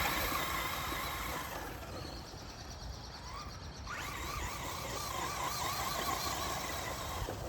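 Electric RC rally car's motor whining as it drives. The whine fades away over the first few seconds, then rises in pitch again as the car accelerates about four seconds in and holds steady.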